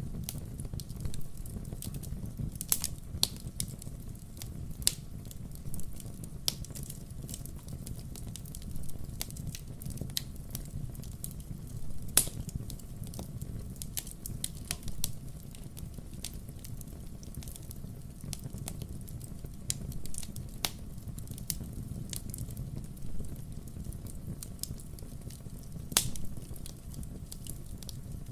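Firewood burning, with irregular crackles and sharp pops over a low steady rumble.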